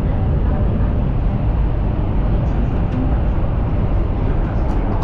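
Running noise of a Chinese high-speed train travelling at speed, heard inside the car: a steady low rumble and rush with no break. A faint click comes near the end.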